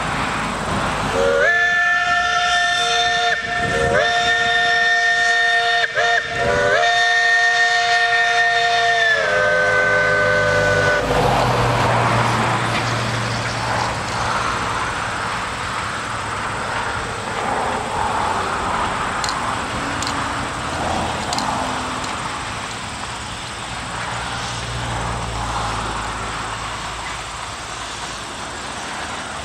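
Steam locomotive's whistle sounding several notes at once in four blasts, long, long, short, long: the standard grade-crossing signal. The last blast sags in pitch as it shuts off, and the narrow-gauge train keeps running with a steady rumble and a low hum.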